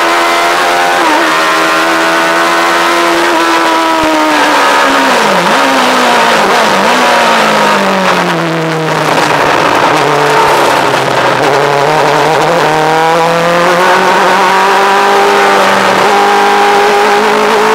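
Yamaha R1 motorcycle engine in a light open track car, heard onboard at speed: running at high revs, then falling in pitch as the car slows, with two brief dips in pitch about five and seven seconds in. After a low stretch it rises steadily again as the car accelerates.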